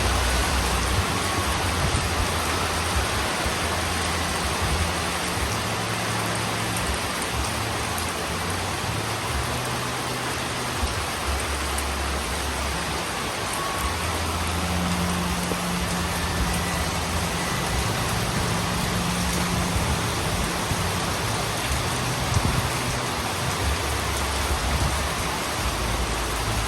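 Heavy rain falling steadily on a roof, with low thunder rumbles swelling and fading several times underneath.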